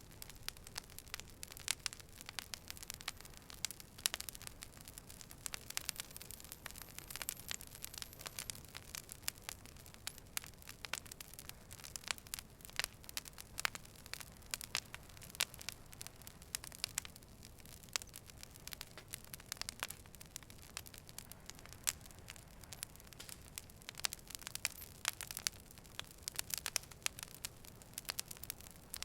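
Fire burning and crackling: a dense, irregular run of sharp pops and snaps over a soft steady hiss.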